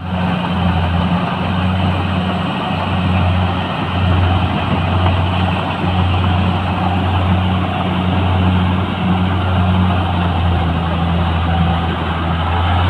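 Tractor engine running steadily, a low even drone with a hiss above it.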